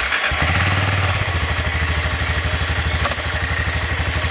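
BMW motorcycle engine starting and settling into a steady, evenly pulsing idle. There is a single sharp click about three seconds in.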